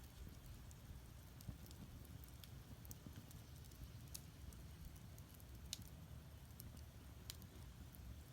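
Firewood burning in an agungi, a Korean wood-fired furnace: faint, scattered crackles and pops over a low steady rumble, a few sharper pops in the second half.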